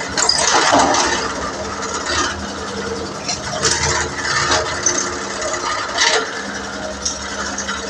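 A steady machine hum with irregular short scrapes and knocks from work on metal, about five or six in the span.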